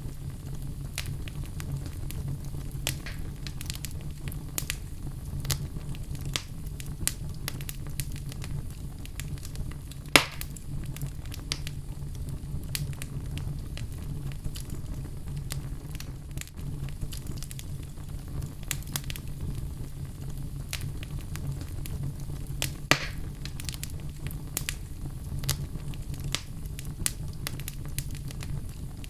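Fire in a fireplace crackling, with a steady low rumble under many irregular small pops and two louder pops, about a third of the way in and about three-quarters through.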